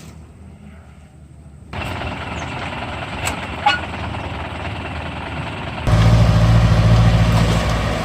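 Truck diesel engine running. A steady rushing noise comes in about two seconds in, and the engine grows much louder about six seconds in, as if revved up.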